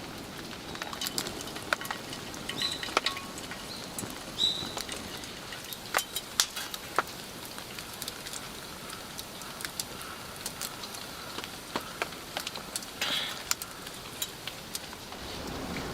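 Wood campfire crackling with irregular sharp pops over a steady hiss of light rain, with two short high chirps about three and four and a half seconds in.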